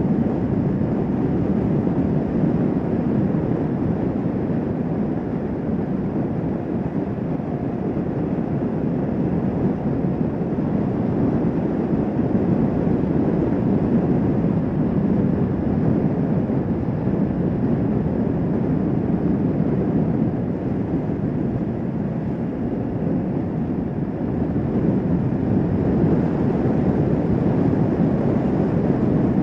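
Motorcycle cruising at a steady speed: a constant rush of engine, road and wind noise over the microphone, swelling slightly a couple of times.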